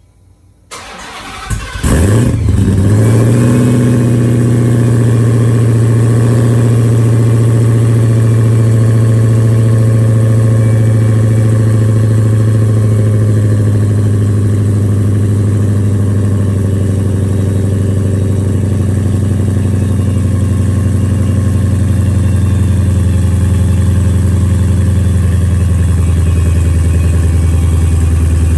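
2016 Dodge Charger Hellcat's supercharged 6.2-litre Hemi V8 cold-starting through American Racing headers and a full exhaust system: the starter cranks briefly, the engine catches about two seconds in with a quick rev flare, then settles into a loud, steady fast idle whose pitch eases down slightly in the second half.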